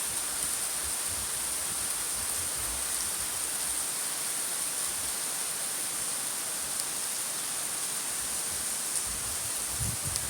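Steady even hiss of monsoon rain, with a constant high-pitched tone running over it and a few low bumps near the end.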